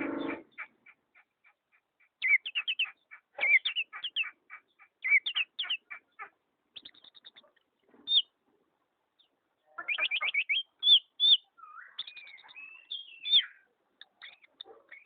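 Pet songbird chirping in quick runs of sharp, high notes, broken by short pauses, with a gliding, warbled phrase about two-thirds of the way through.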